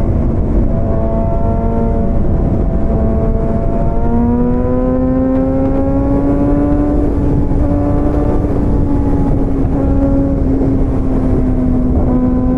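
Motorcycle engine running at cruising speed, its pitch rising about four seconds in and then holding steady, under a heavy rush of wind noise.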